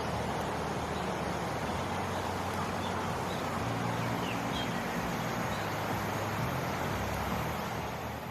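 Steady vehicle running noise: a low engine hum under an even hiss of road and wind noise, fading out near the end.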